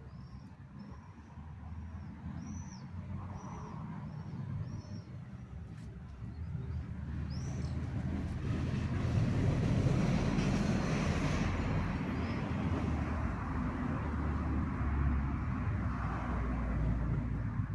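A low rumble builds over several seconds and then holds steady. In the first few seconds a small bird chirps a run of short, high notes, evenly repeated.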